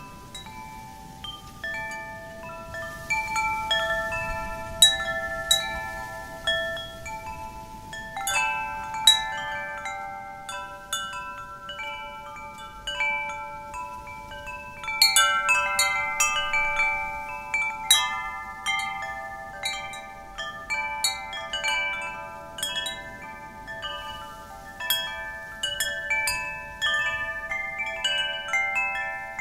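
Wind chimes struck irregularly by the wind, many ringing tones overlapping and dying away. The strikes come thicker from about eight seconds in. A soft, low rush of real wind runs beneath them.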